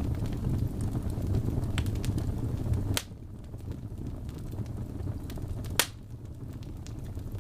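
Wood fire burning in a fireplace: a steady low rumble with scattered sharp crackles and two louder pops, about three and six seconds in. The rumble drops noticeably after the first loud pop.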